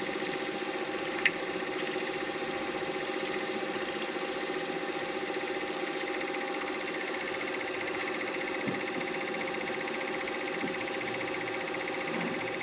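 Midi lathe motor running steadily with a constant hum, with one sharp click about a second in.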